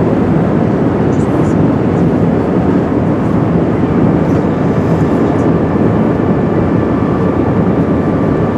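Airbus A380 cabin noise on final approach with landing gear down and flaps extended: a loud, steady rush of airflow and engine noise. A faint steady whine joins about halfway through.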